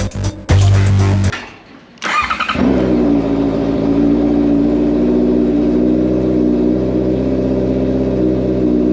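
Music ends about a second in; after a short pause a Honda CB650R's inline-four engine is started with a brief crank and settles into a steady idle.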